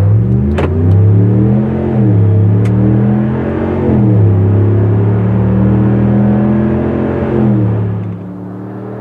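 5.7L Hemi V8 of a RAM 1500 running through a Flowmaster FlowFX straight-through muffler. It is revved up and held twice, then holds a steadier rev for about three seconds before dropping back to idle near the end.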